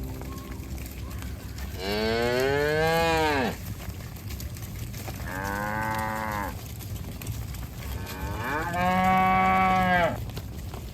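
Cows mooing: three long moos, each rising and then falling in pitch, the last the loudest.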